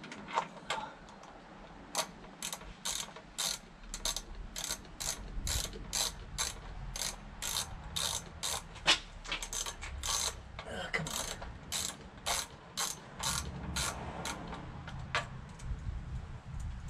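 Hand ratchet clicking in slow, even strokes, about two clicks a second, as it turns a screw.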